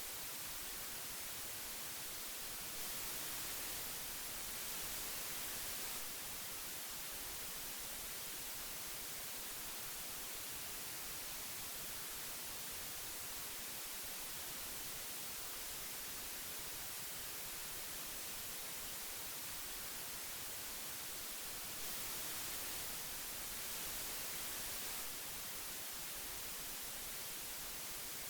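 Old magnetic tape hiss: a steady, even hiss that turns slightly brighter and louder twice, for about three seconds each time.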